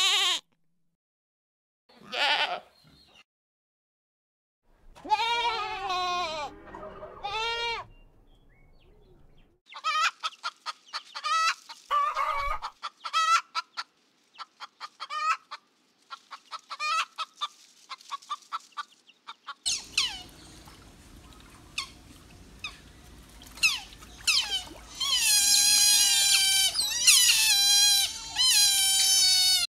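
Goats bleating, one short call and then a longer run of bleats. Chickens follow, clucking in quick repeated notes. Then a group of otters chirps and squeals in high, falling calls that grow loudest near the end.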